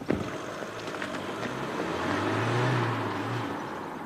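A car door slams shut twice at the start, then a car drives off, its engine and tyre noise rising to a peak and fading away.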